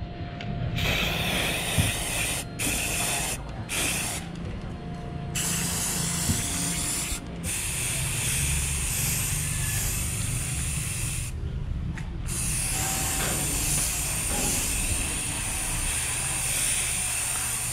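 Aerosol spray-paint can hissing as black paint is sprayed, in long bursts broken by several short pauses, over a low steady rumble.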